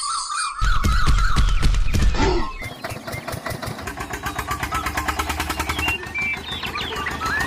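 Small engine starting about half a second in and then running with a fast, even chugging.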